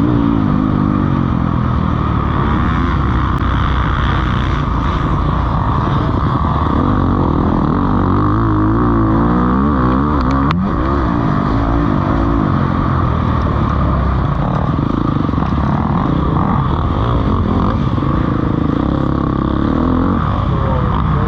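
Several motocross bikes racing, their engines revving up and down over and over.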